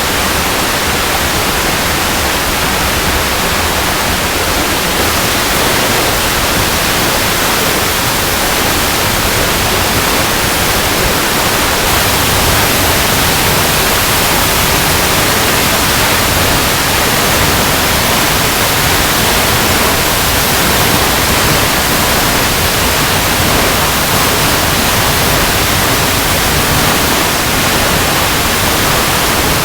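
Waterfall cascading over rocks: a steady, dense rushing of falling water, even across high and low pitches, with no change.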